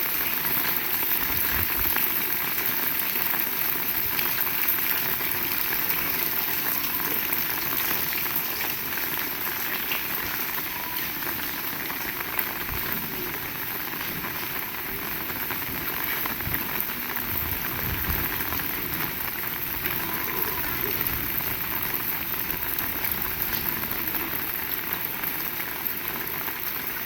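Heavy rain falling, a steady dense hiss with a few soft low thuds now and then.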